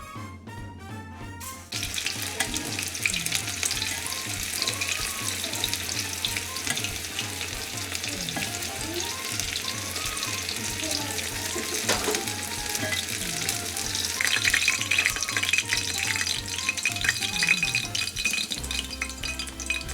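Food sizzling and crackling as it fries in hot oil, starting about two seconds in and crackling hardest near the end, over background music.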